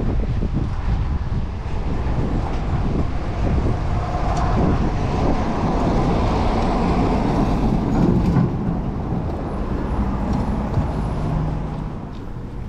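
City traffic around a moving bicycle: a large vehicle's running noise swells in the middle and eases off near the end, over wind on the microphone.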